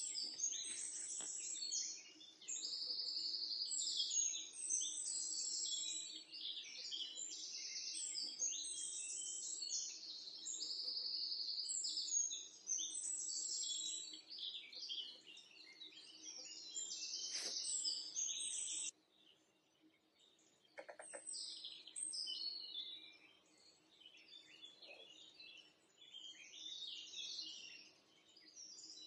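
Many small birds chirping and twittering at once, a dense chatter of short high calls. The chatter stops for a couple of seconds a little past the middle, then resumes more sparsely, over a faint steady hum.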